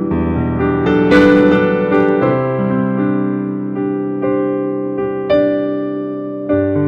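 Slow, gentle solo keyboard music: sustained chords struck every second or two, each one slowly fading before the next.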